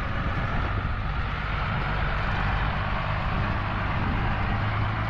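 A car engine running steadily, with a constant low hum, over outdoor background noise.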